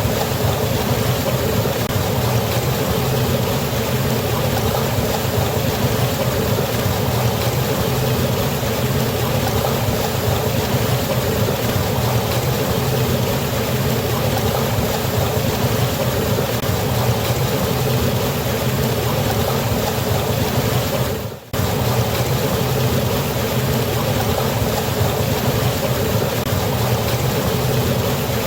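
Steady roar of water pouring down a waterfall into a river, a dense even rush with a deep low rumble. It cuts out for an instant about three-quarters of the way through.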